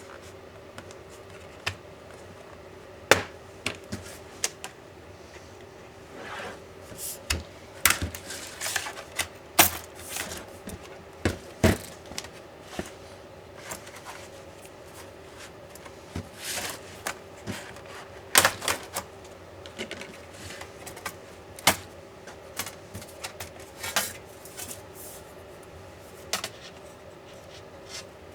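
Irregular clicks, taps and small clatters of hand tools and metal laptop parts being handled and set down while a 2021 16-inch MacBook Pro is taken apart, over a faint steady hum.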